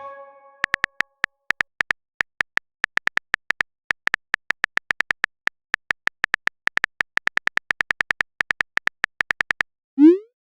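Phone keyboard typing sound effect: many quick, irregular clicks, like fast tapping, for about nine seconds, then a short rising pop about ten seconds in, the sound of a chat message being sent.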